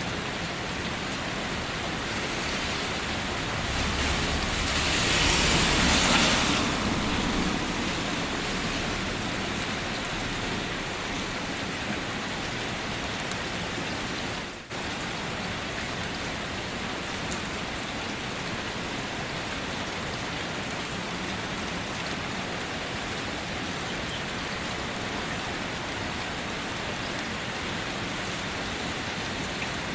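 Steady rain falling, an even hiss of drops, swelling louder for a few seconds near the start with a low rumble underneath. It drops out for an instant about halfway through.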